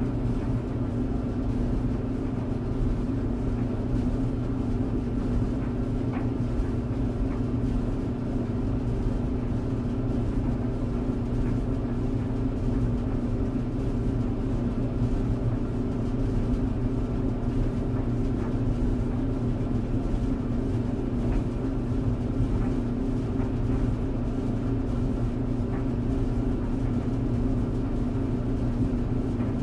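Tumble dryer running steadily: a constant low hum and rumble from the motor and turning drum.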